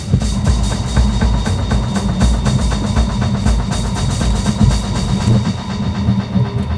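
Music with a quick, steady beat, mixed with the running sound of a train.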